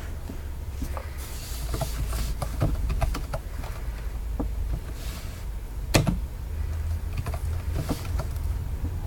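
A run of small clicks and short rustles, with one sharper click about six seconds in, over a steady low hum.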